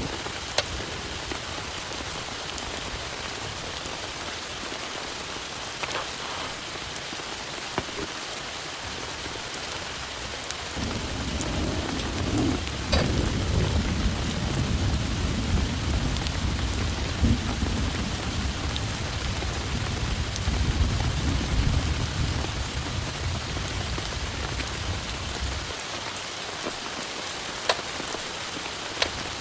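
Heavy rain falling steadily, with scattered drops ticking. A long roll of thunder rumbles in about a third of the way through and fades out near the end.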